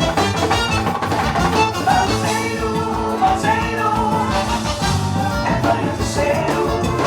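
Live band playing upbeat music with a fast, steady drum beat and long held notes in the middle of the passage.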